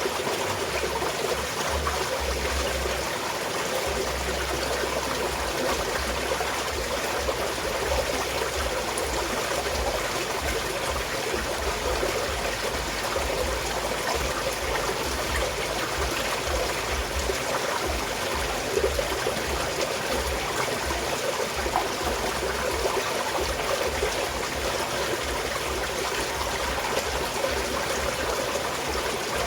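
Small mountain stream flowing steadily, a constant rush and trickle of water with a low rumble coming and going underneath.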